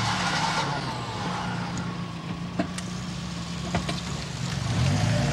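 Car engine running at a steady idle just after starting, with a couple of faint clicks, then the revs rise near the end.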